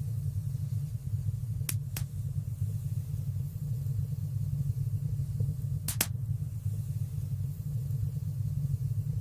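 Wood fire burning in a stone fireplace: a steady low rumble of flames with sharp crackling pops, two close together about two seconds in and another pair about six seconds in.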